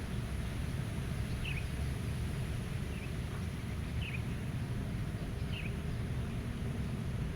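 Steady low wind rush with a small bird giving four short, faint chirps, spaced a second or so apart.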